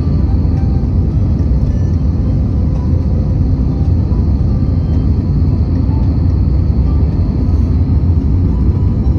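Airplane noise during a landing descent: a steady low rumble with a faint high whine.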